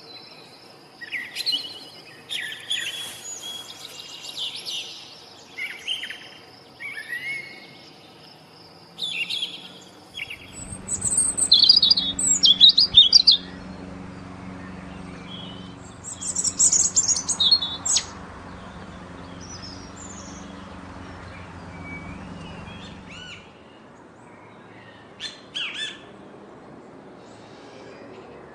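Baby birds chirping in repeated bursts of high calls, loudest in a cluster around the middle. A low steady hum runs underneath through the middle stretch.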